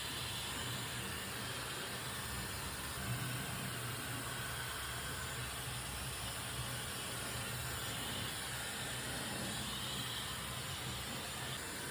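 Hair dryer blowing steadily: an even rushing noise with a low hum underneath.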